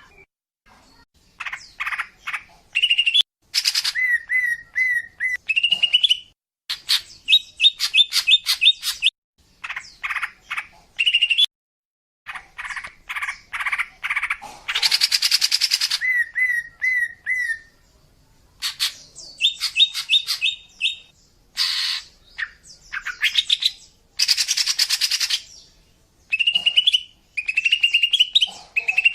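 Female cucak ijo (green leafbird) calling in rapid, varied phrases of chirps, buzzy notes and short repeated whistles, in bouts broken by brief pauses. It is a female's call of the kind used to lure male leafbirds.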